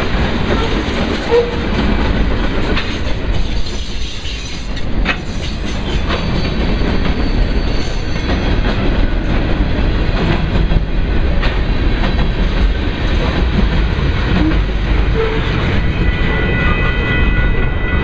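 Freight cars (covered hoppers, boxcars and tank cars) rolling past: a steady rumble of wheels on rail with irregular clickety-clack as the wheels cross rail joints. A few steady high-pitched tones join in near the end.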